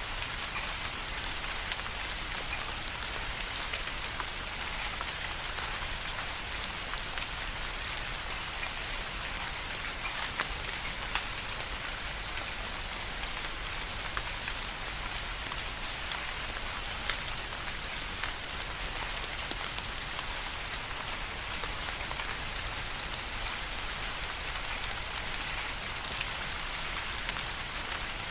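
Steady rain falling, with a constant hiss and many small, sharp drop ticks scattered throughout.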